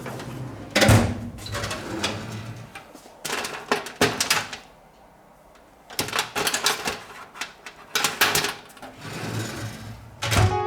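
Several bursts of clattering knocks and rattles from hard objects being handled, with short quiet gaps between them.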